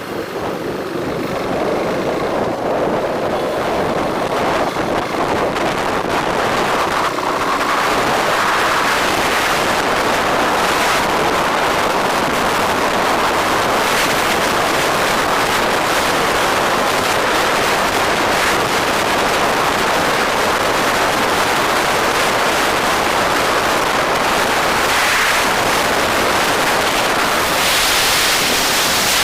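Steady rush of wind over the microphone on a moving bike, building over the first few seconds and then holding even.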